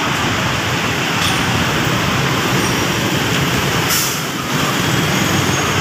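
Loud, steady wash of city street noise: road traffic around a busy junction mixed with the hiss of heavy rain, easing briefly a little after four seconds in.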